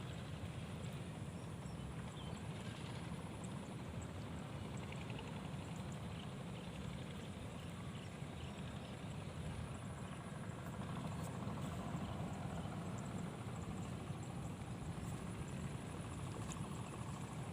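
Steady wind rumbling on the microphone, with no distinct events in it.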